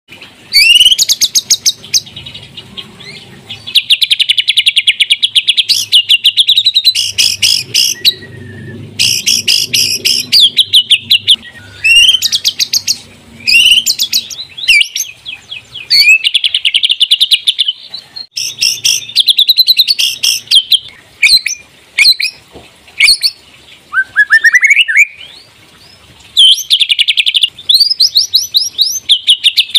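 White-rumped shama (murai batu) singing loudly in long, varied phrases of rapid whistles and trills, with short pauses between phrases.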